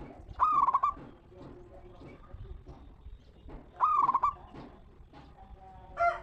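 Zebra dove (perkutut) cooing: two short trilled coo phrases about three seconds apart, with another starting right at the end, and faint calls from other birds between them.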